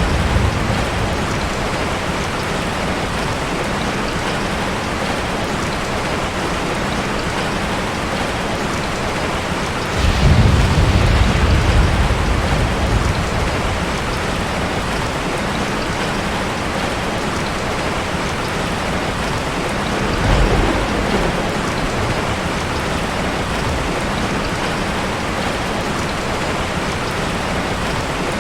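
Steady rain, with a low roll of thunder about ten seconds in and another about twenty seconds in.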